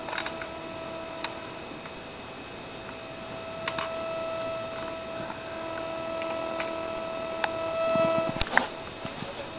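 Steady electronic hum, a single pitch with overtones, from radio interference: the RC transmitter bleeding into the camera's electronics. It grows louder near the end, with a few sharp ticks scattered through.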